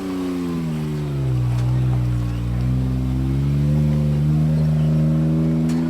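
Off-road 4x4's engine pulling hard under load as the rig climbs a trail obstacle. The revs dip about a second in, then rise slowly and steadily, and drop off at the very end.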